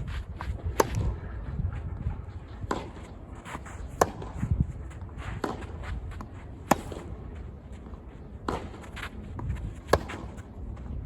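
Tennis rally: racket strings striking the ball about every one and a half seconds, with players' footsteps on the court between hits.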